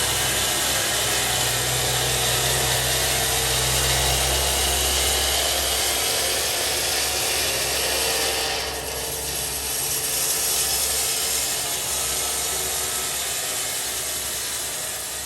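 Power saw cutting through wood: a loud, steady rasping noise over a low motor hum. The hum fades about five seconds in, and the cutting noise shifts about eight to nine seconds in.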